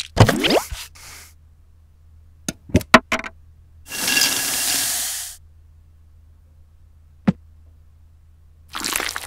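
A string of short cooking sound effects: a quick sweeping sound at the start, a few sharp clacks about three seconds in, a hiss lasting about a second and a half, a single sharp click, then another rough rush of noise near the end.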